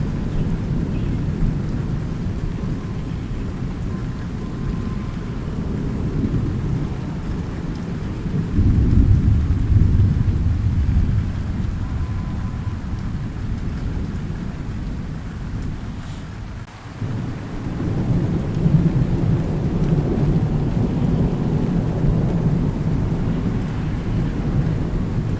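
Thunderstorm: continuous rolling thunder over steady rain. The rumble swells into a louder peal about nine seconds in, fades briefly about two-thirds of the way through, then builds again.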